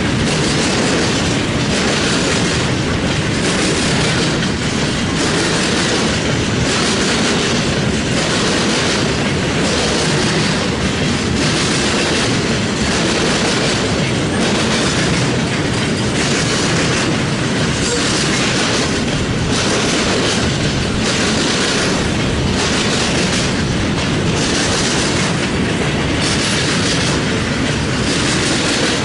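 CSX freight train's cars rolling past, loud and steady, with wheels clacking over the rail joints about once a second.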